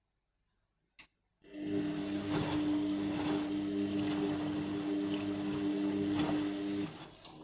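Indesit MyTime washing machine's drum motor turning the drum during a bedding rinse: a click, then a steady hum with water swishing in the drum for about five seconds before it stops. This is one of the slow rotations with pauses of its anti-allergy rinse.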